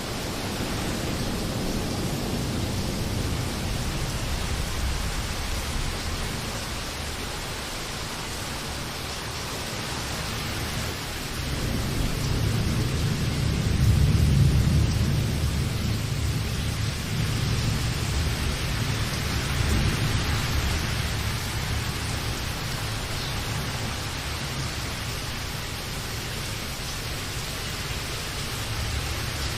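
Steady heavy rain, with a low roll of thunder that swells a little before halfway through, peaks and slowly fades.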